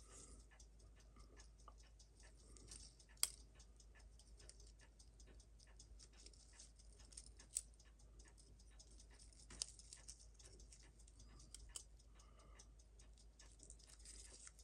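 Faint small metallic clicks and taps of watchmaker's tools on watch parts while the mainspring is worked out of its barrel, with four sharper clicks spread through.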